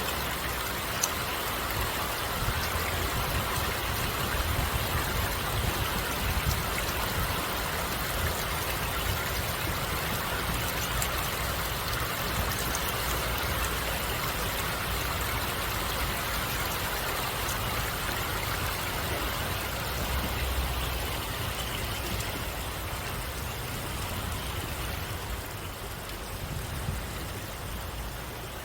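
Flowing stream water: a steady, even rush, easing slightly near the end.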